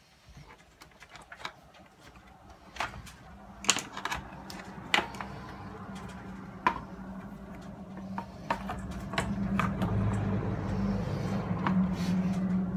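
Clicks and knocks of small plastic and metal parts being handled as a portable radio is taken apart, with a low steady hum that comes in about a third of the way through and grows louder.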